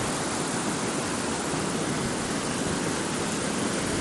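Mountain creek waterfall: a steady, even rush of falling water.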